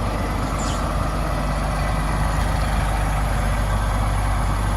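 Farm tractor engine running steadily with a low, even drone.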